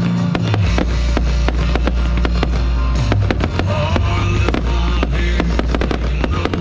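Fireworks going off in quick succession, many sharp bangs and crackles, over loud music with a deep bass line.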